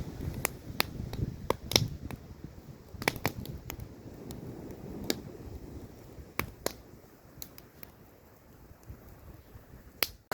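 Wood campfire crackling, with sharp irregular pops and snaps over a low rumble of flames as freshly stacked logs catch.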